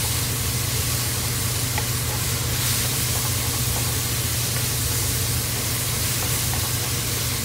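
Minced pork sizzling in a nonstick pan while it is stirred with a wooden spatula, with a steady low hum underneath.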